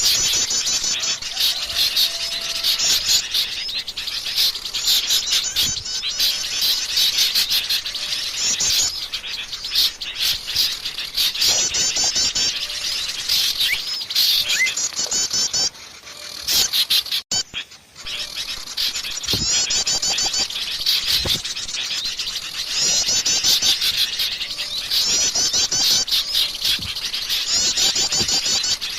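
A dense, noisy chorus of small songbirds chirping and trilling at once, with fast high trills repeated over and over: a bird-lure track meant to draw in many kinds of small birds. The chorus briefly drops away about sixteen seconds in, then picks up again.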